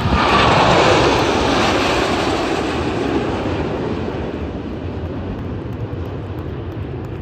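Jet noise from Blue Angels F/A-18 Super Hornets passing low. It comes in loud right at the start, its pitch falls as the jets go by, and it slowly fades.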